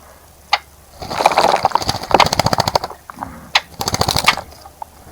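A bird bathing in a bird bath, fluttering its wings in the water in two rapid splashing bouts, the first about two seconds long and the second shorter. A couple of sharp ticks come just before each bout.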